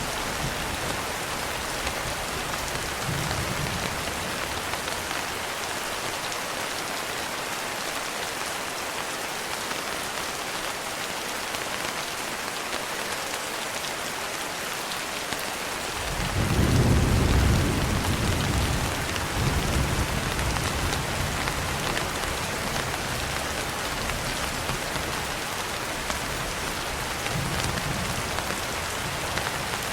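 Steady rain falling, with a roll of thunder rumbling in about halfway through and slowly fading, and fainter distant rumbles near the start and near the end.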